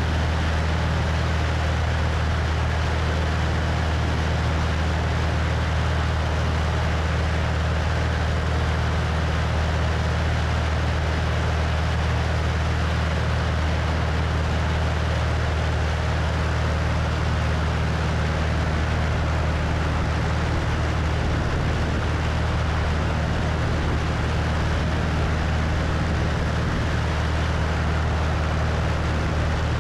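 Cessna 172's piston engine and propeller droning steadily in flight, with wind rushing past the wing-mounted microphone.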